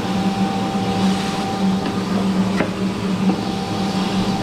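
Electric forge blower fan running steadily at full speed, a constant hum with air rushing from its outlet. A single light knock comes about halfway through.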